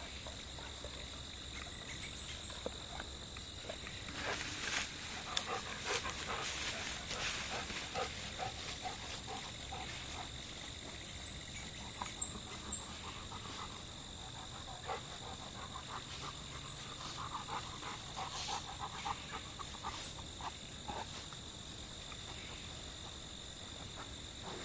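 A golden retriever panting and snuffling in bursts, over a steady high drone of crickets, with a few short high chirps.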